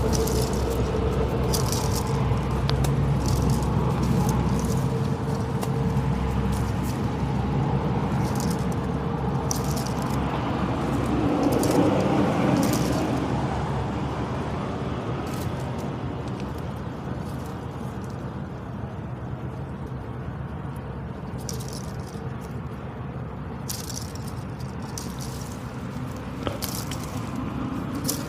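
A buffalo flapping its ears, the ears slapping against its head in irregular runs of quick, sharp rattling clicks. A steady low rumble runs underneath.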